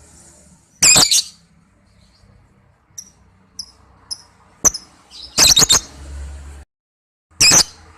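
Lovebird giving loud, shrill chirps in short bursts: one burst about a second in, a few faint chirps, then a sharp call and a quick cluster of calls, and another burst near the end. These are lure calls meant to set other lovebirds calling in reply.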